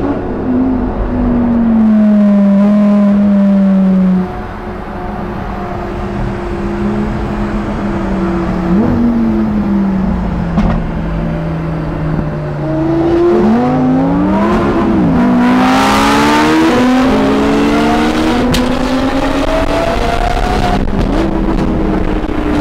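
Sports car engines accelerating hard, their pitch climbing and falling back at each gear change, with several engines overlapping at different pitches. The engines are loudest in the first few seconds, and a run of quick shifts comes about two-thirds of the way in.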